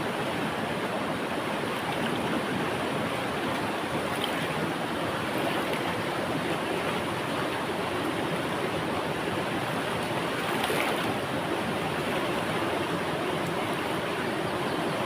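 A river flowing, a steady, even rush of water with a few faint splashes.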